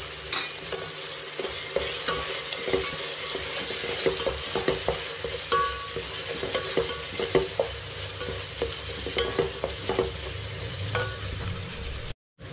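Onion-tomato masala sizzling as it fries in oil in a cooking pot, stirred with a spoon that scrapes and clicks against the pot over and over as the turmeric and garam masala are mixed in. The sound cuts out briefly near the end.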